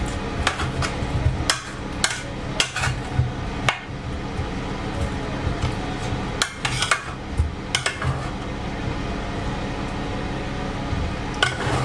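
Irregular metal clinks and knocks of a utensil against a roasting tray while a chicken is basted with its pan juices, over a steady low hum.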